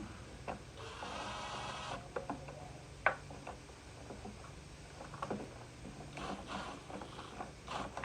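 Hands working on parts of a backpack blower: scattered sharp clicks and knocks, a brief rasping scrape about a second in, and rustling near the end, over a steady low hum.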